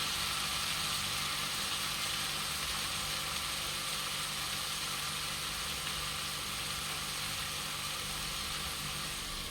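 Marinated chicken pieces sizzling in a covered pan over low heat: a steady hiss that eases slightly.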